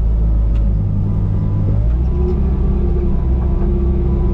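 Bobcat T595 compact track loader's diesel engine running with a steady low rumble. About two seconds in the engine note shifts and a faint steady whine joins it.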